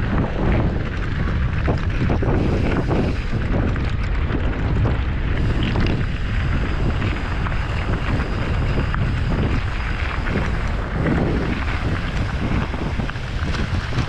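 Wind buffeting the microphone: a loud, steady low rumble with gusty swells throughout.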